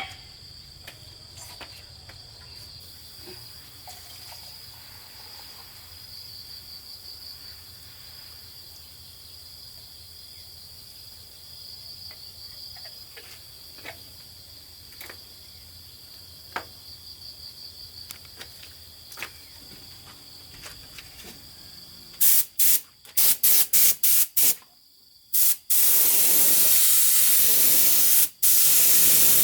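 Insects chirping steadily in the background with a few light clicks. About three-quarters of the way through, a loud spraying hiss starts in a string of short bursts, then runs continuously with one brief break: a paint spray gun being triggered.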